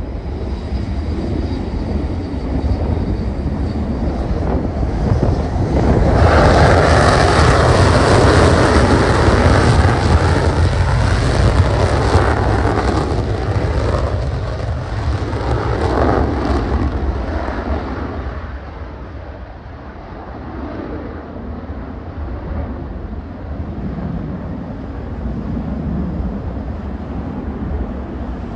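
Dutch F-35A fighter's Pratt & Whitney F135 jet engine roaring on afterburner. The roar swells suddenly about six seconds in, stays at its loudest for some ten seconds, then fades to a lower, distant rumble.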